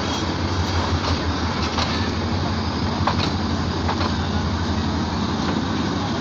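Intercity passenger train of PT INKA coaches rolling past a station platform: a steady rumble of wheels on the rails, with a few sharp clacks at rail joints.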